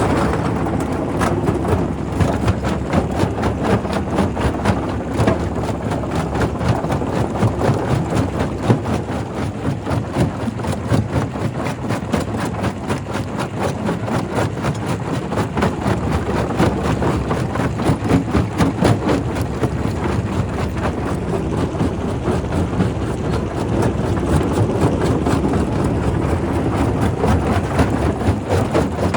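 Primary rock crusher at a quarry running under load: a steady low mechanical rumble with a dense, continuous clatter of rock being broken and tumbling through.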